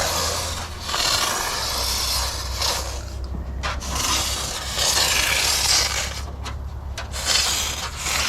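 Aerosol spray paint can hissing in several bursts of one to two seconds, with short pauses and a few light clicks between them.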